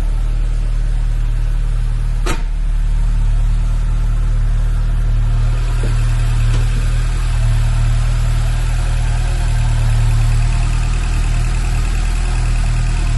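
BMW 2002 tii's fuel-injected four-cylinder engine idling steadily on a cold start, at a slightly raised cold idle. A single sharp click comes about two seconds in, and a thin, steady, higher whine joins the engine sound about five seconds in.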